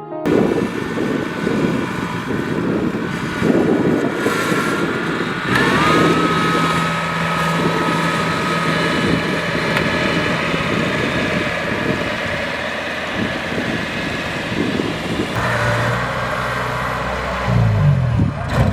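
Kubota DC-70 Plus combine harvester running while harvesting rice: a steady diesel engine under the rattle of the threshing machinery. About a third of the way in a whine glides up and then holds steady, and near the end the engine's pitch rises and falls several times.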